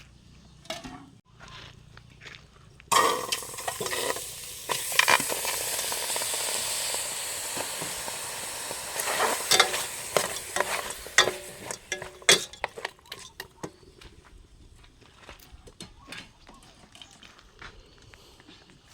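Food dropped into hot oil in a pan, starting suddenly about three seconds in and sizzling steadily for several seconds while being stirred. The sizzle then dies down into scattered scrapes and clinks of a utensil against the pan.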